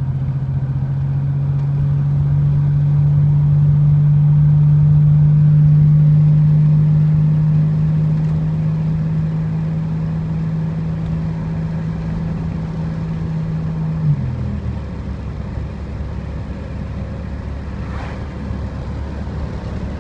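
1987 Buick Grand National's turbocharged 3.8-litre V6 running at a steady pace on the move. About two-thirds of the way through, its note drops suddenly to a lower hum.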